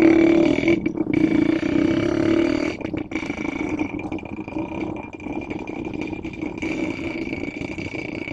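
Diesel locomotive engine running steadily with a low drone, getting somewhat quieter about three seconds in.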